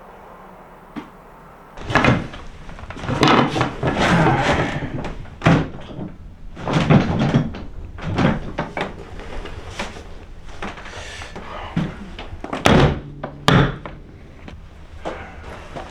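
A rapid, irregular series of knocks, bangs and clattering of hard objects, starting about two seconds in, with short stretches of rattling and scraping between the sharper hits.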